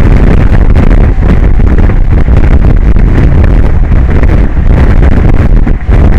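Strong wind buffeting the microphone: a loud, steady low rumble with no pauses.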